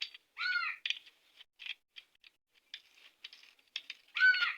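Light, irregular metal clicks and taps of small engine parts and tools being handled during engine assembly. A cat meows twice, about half a second in and louder near the end.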